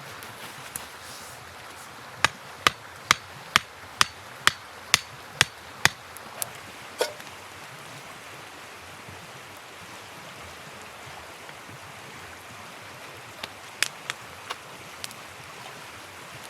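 A tool striking wood at camp: a run of about nine sharp, evenly spaced blows, roughly two a second, followed a little later by a few scattered knocks, over a steady background hiss.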